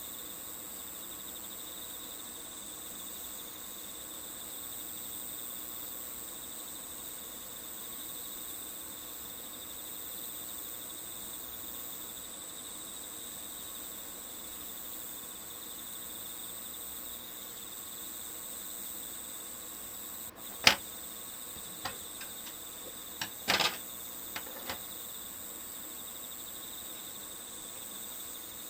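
Steady chirring of a cricket chorus. A single sharp click sounds about two-thirds of the way through, and a short run of lighter clicks and taps follows a few seconds later.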